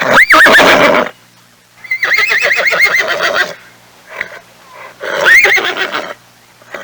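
Horse whinnying three times: a short squealing neigh, a longer one with a quavering, shaking pitch, then a third short neigh.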